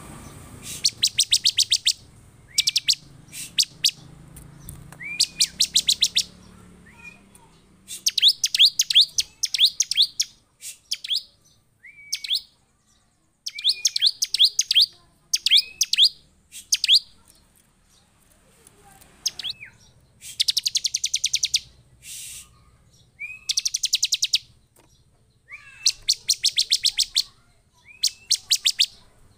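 Bar-winged prinia (ciblek) singing excitedly: about a dozen loud bursts of rapid, evenly repeated high chip notes, each burst about a second long with short pauses between. Many bursts open with a short rising note.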